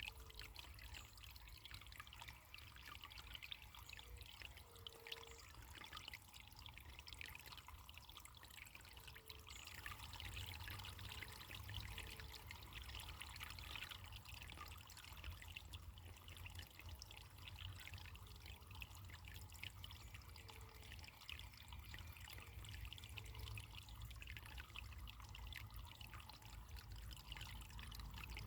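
Running water trickling steadily, faint.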